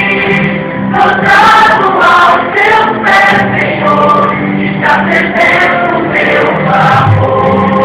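Music: a choir of several voices singing a gospel song in harmony.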